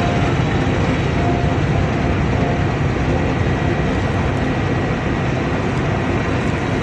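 Combine harvester running steadily under load, a continuous heavy rumble of the engine and the threshing machinery.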